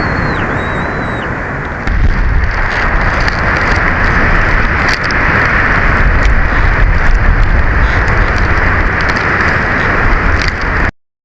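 Storm wind buffeting the eagle nest-cam microphone: a loud, rough roar that grows heavier and deeper about two seconds in. The sound cuts out for a moment near the end.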